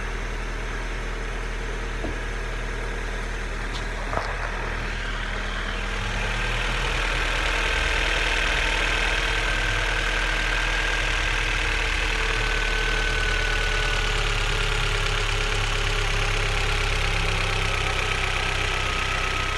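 Vauxhall Astra Mk4 Turbo engine idling steadily after a cold start. About six seconds in it gets a little louder and a high whine joins in, drifting slightly lower later on.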